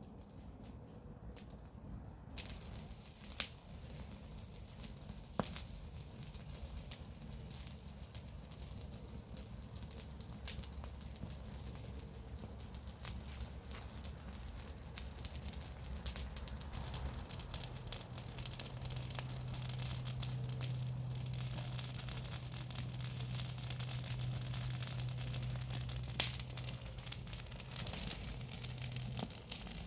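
Garden-waste bonfire crackling: a dense crackle and hiss of burning leaves and twigs with a few sharper pops, growing gradually louder. A steady low hum sits underneath from about halfway through.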